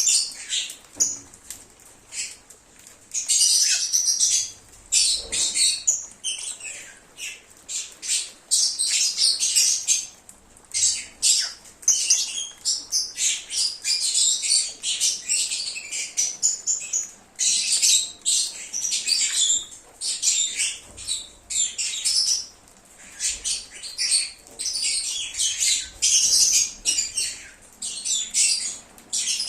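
Lovebirds (Agapornis) chattering: rapid, shrill, high-pitched chirps in dense runs of several seconds, broken by brief pauses.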